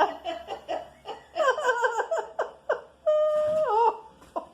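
Laughter in quick, high-pitched bursts, then a long held note about three seconds in that drops in pitch at its end.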